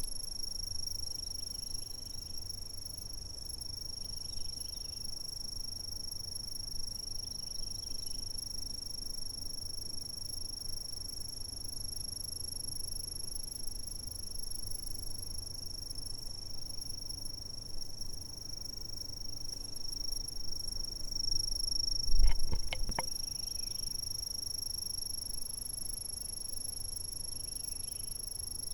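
Insects trilling without a break in one steady high-pitched tone over a low background rumble. About three quarters of the way through, a brief cluster of knocks with a low thump stands out.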